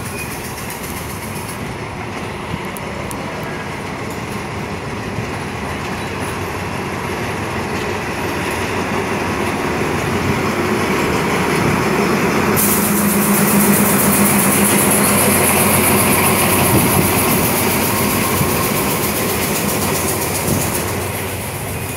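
Passenger train running on the rails: a steady rumble that grows louder from about ten seconds in, with a high hiss added from about twelve seconds in until shortly before the end.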